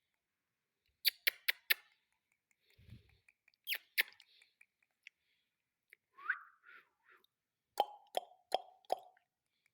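Quick runs of sharp clicks, four about a second in, two near four seconds and four more near the end, with one short chirp from a female ringneck parakeet about six seconds in.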